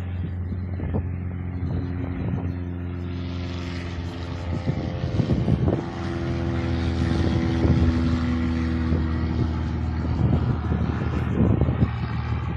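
Train in the station: a steady, many-toned hum with a rush of running noise that swells through the middle and eases again, and scattered knocks.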